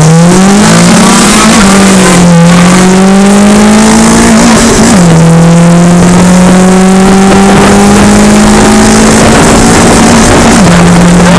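GM LS V8 at full throttle, its note climbing steadily in pitch and then dropping sharply at each upshift, about one and a half, five and ten and a half seconds in.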